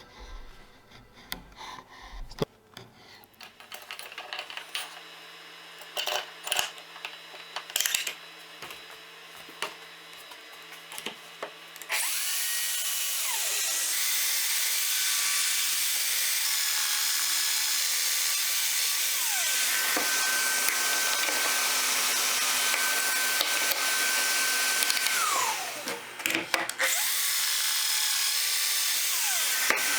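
Scattered knocks and clicks of tools and wood being handled, then an electric power tool starts about twelve seconds in and runs steadily with a high whine. Near the end it winds down, falling in pitch, and is started again.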